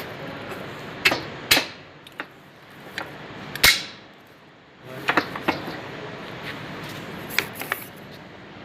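Hand tools and metal parts knocking and clicking in separate sharp strikes, some with a short ring, over a steady background hiss.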